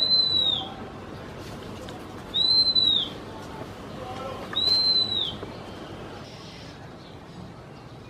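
A small songbird giving a clear high whistled call three times, about two seconds apart. Each note rises and then falls.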